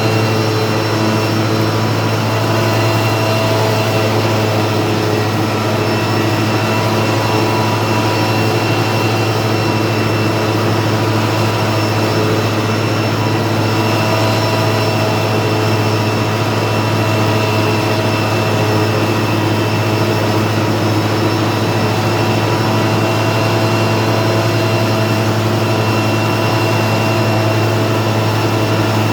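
Tractor engine running steadily while mowing pasture, a constant low drone with a steady high whine above it.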